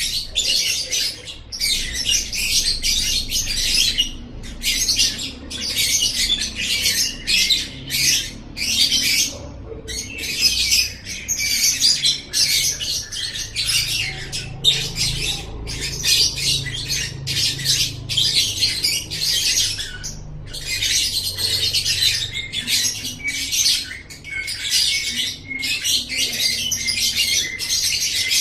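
Lovebird singing: long runs of rapid, high-pitched chattering and squawking notes, broken by brief pauses.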